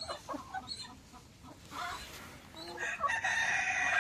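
Chickens giving short calls, then a rooster starts a long crow about three seconds in.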